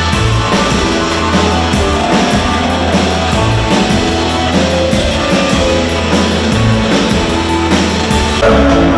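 Rock band playing an instrumental passage, electric guitar over a steady drum-kit beat and a pulsing bass line, with no singing.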